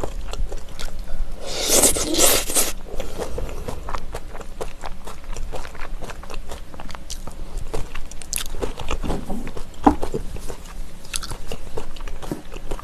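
Close-miked chewing of a mouthful of sliced raw trout mixed with shredded vegetables and chili sauce: crunching and mouth clicks all through, with a louder burst about two seconds in.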